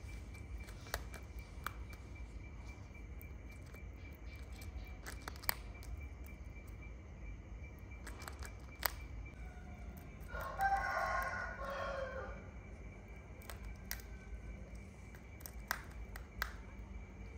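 A loud bird call about ten seconds in, lasting about two seconds and dropping in pitch at its end. Under it runs a steady high whine, with scattered faint clicks.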